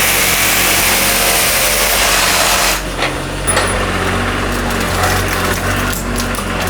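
A small engine running steadily under a dense rushing noise that stops abruptly about three seconds in, leaving the engine's hum with a few scattered knocks.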